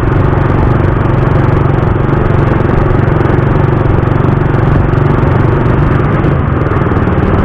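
Suzuki Raider 150's single-cylinder four-stroke engine running steadily while being ridden, with wind and road noise over the microphone.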